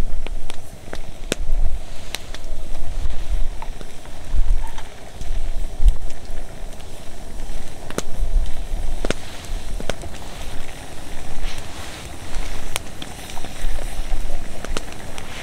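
Campfire crackling, with scattered sharp pops at irregular times over a low rumble.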